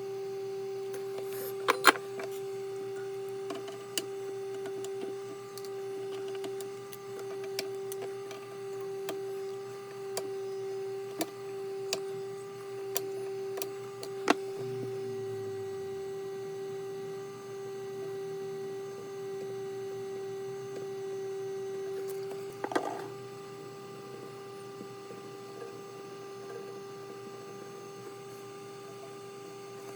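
Steady electrical hum, a single pitched tone with overtones, with scattered light clicks and taps over it. About three-quarters of the way through there is a louder knock, and the hum carries on more quietly after it.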